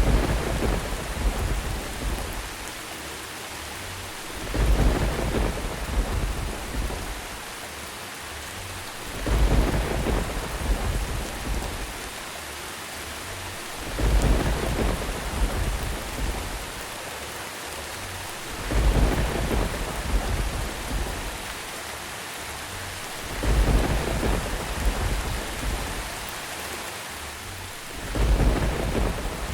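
Steady rain with thunder rumbles coming about every four to five seconds at even spacing. Each rumble starts suddenly and fades over two to three seconds.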